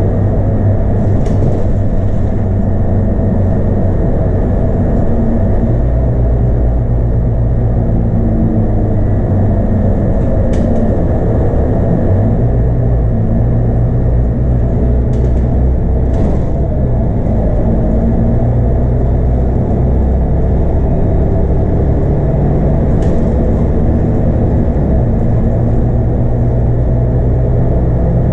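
Scania DC9 8.9-litre five-cylinder diesel of a Scania K230UB bus running under way, heard inside the cabin as a steady low drone with road noise, its pitch shifting a little a few times. A handful of short clicks or rattles sound through it.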